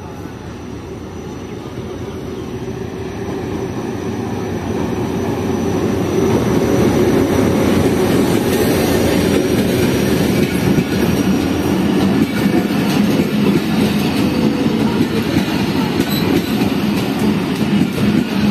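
Passenger train pulling into a station, led by an HGMU-30 diesel-electric locomotive. The rumble grows steadily louder over the first six seconds as it comes up and passes. Then the coaches roll by slowly, with wheels clacking over the rail joints.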